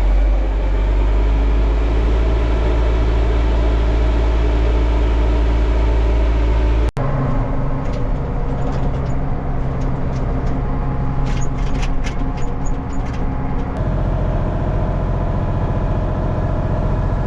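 Farm tractor engine running steadily at working speed. Its pitch and character change abruptly about seven seconds in and again near fourteen seconds. Scattered light clinks and rattles come in the middle.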